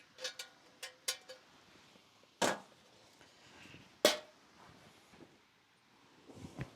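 A few light clicks, then two sharp knocks about a second and a half apart, the second with a brief ringing, like hard objects being set down or handled.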